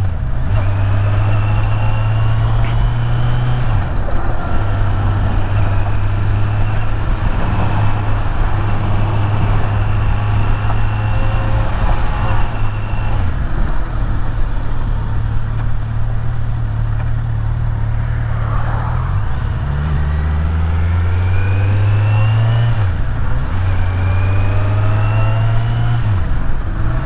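Kawasaki Z900 inline-four motorcycle engine running under way, with a steady rush of wind and road noise. In the second half the engine note climbs and drops back several times as the bike accelerates through gear changes.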